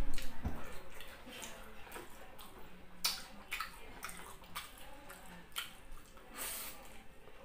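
Wet chewing and lip-smacking of a person eating beef patty and rice by hand: an irregular run of short wet clicks and smacks, loudest near the start, with a longer smack about six and a half seconds in.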